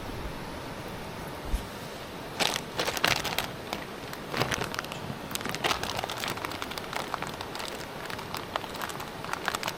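Irregular crackling and popping over a steady hiss from an open wood cooking fire.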